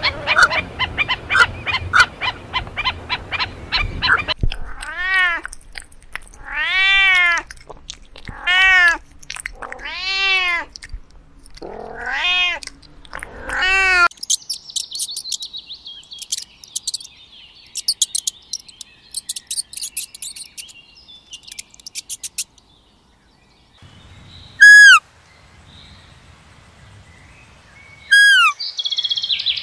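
A run of different animal calls. Rapid short calls open it. About six drawn-out calls follow, each rising and falling in pitch. Then come fast, high-pitched squeaks for several seconds, and two short falling chirps near the end.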